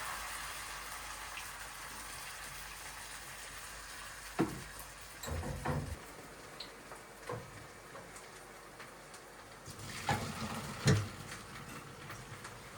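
A few irregular knocks and thuds over a faint steady hiss; the loudest knock comes near the end.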